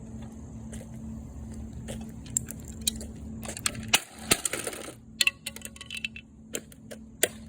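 Plastic and metal parts of a Keurig coffee maker clicking, rattling and knocking as it is pulled apart, with a busier clatter and the sharpest knocks about halfway through.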